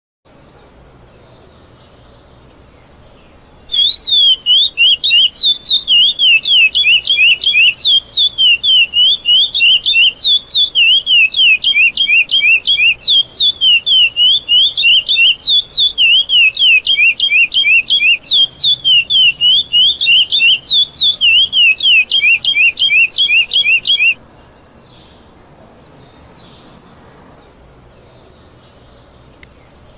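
Curió (chestnut-bellied seed finch) singing the 'praia clássico' song: one long unbroken song of quick notes sliding up and down, starting about four seconds in and stopping about twenty-four seconds in.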